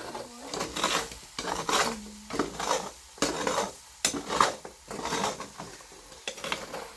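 A metal utensil stirring and scraping in a cooking pot, in a string of irregular scrapes and clinks, with food sizzling under them.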